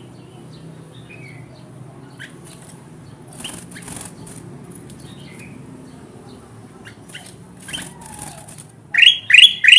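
Kutilang emas bulbul calling: scattered faint chirps and two brief rustling bursts, then near the end a loud run of quick downward-sliding notes, about three in a second. A steady low hum runs underneath.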